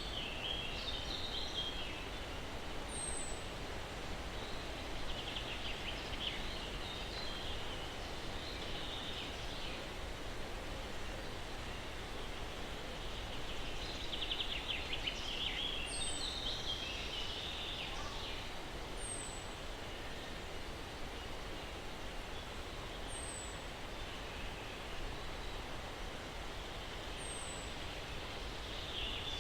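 Soft, steady breeze through pine trees, with songbirds singing in short warbling phrases now and then and a thin, high, downward chirp repeating every few seconds.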